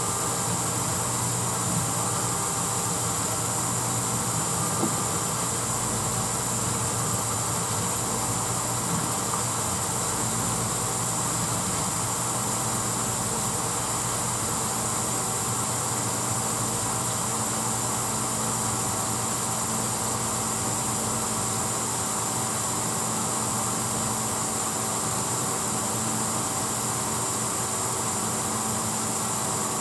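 1986 Hotpoint Potwasher dishwasher running steadily: a constant motor hum under an even hiss.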